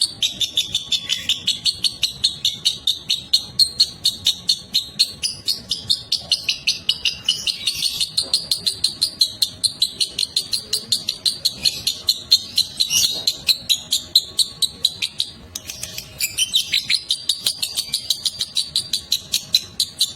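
Lovebird ngekek: a long, fast, unbroken chatter of high chirps at about five a second, breaking off briefly about three-quarters of the way through and then going on.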